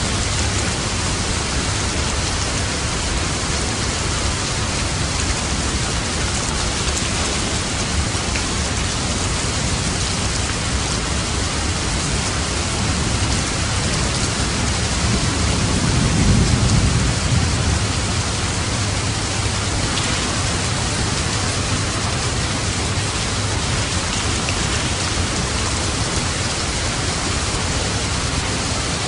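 Steady, dense rainfall. About halfway through, a low rumble of thunder swells and fades over a few seconds.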